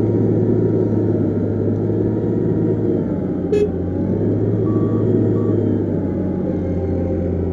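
Heavy diesel earthmoving machine engine running steadily. There is a sharp click about three and a half seconds in, and two short high beeps about five seconds in, like a reversing alarm.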